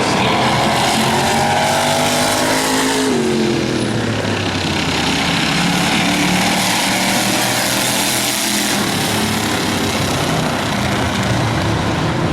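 Several demolition race cars' engines running together, one rising and falling in pitch in the first three seconds, then a steadier mixed engine sound.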